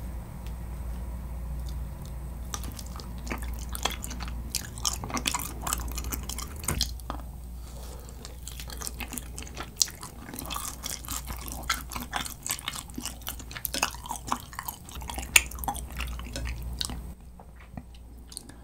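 Close-miked chewing of a grilled kirimochi rice cake coated in gochujang-based tteokkochi sauce: wet mouth sounds with many small irregular clicks.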